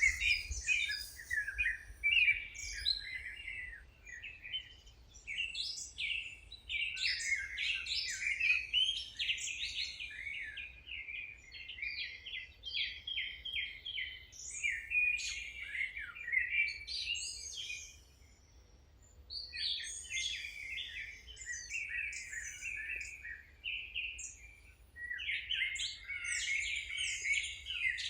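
Songbirds singing and chirping, several calls overlapping in a busy chorus of quick high trills and chirps, with two short lulls in the second half.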